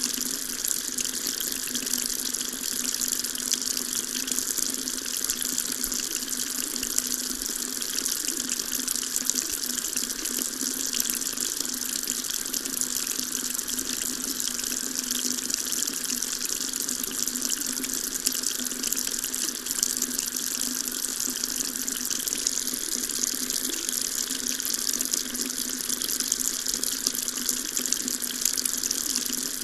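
Water tap running steadily, its stream splashing into a sink with an even, unchanging hiss.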